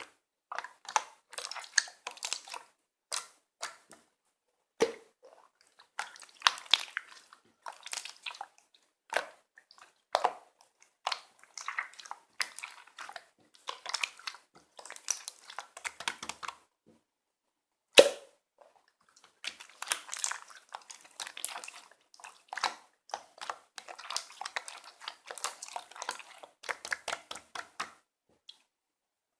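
Slime being squished and worked by hand, giving irregular clusters of sticky crackling and popping, with one sharp pop louder than the rest about two-thirds of the way through.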